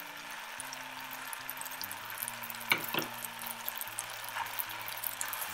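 Egg fried rice sizzling steadily in a pot on the hob as scrambled egg is tipped in and stirred through with a spatula. Two sharp knocks on the pot come about halfway through.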